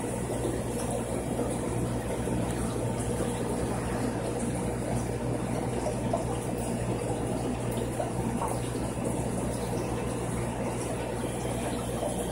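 Aquarium filtration running: steady trickling and splashing water with a constant low pump hum.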